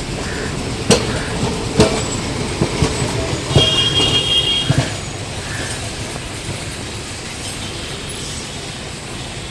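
Kolkata electric tram running on its rails: a steady rumble with about five sharp wheel knocks over rail joints in the first five seconds, and a brief high tone about four seconds in.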